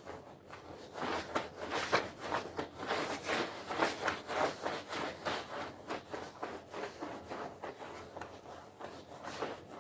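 Repeated scrubbing strokes on a carpet, about three to four a second, starting about a second in.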